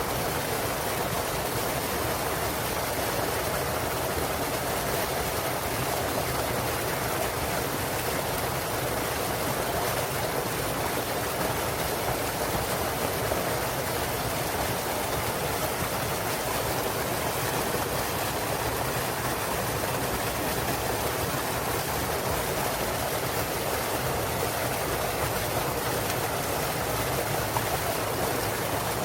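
Small waterfall in a mountain stream: clear water splashing and rushing steadily over rocks.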